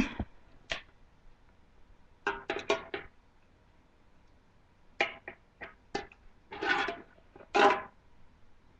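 Pet parrots calling: a sharp click at the start, then several short pitched calls, a quick cluster about two seconds in and two longer calls near the end.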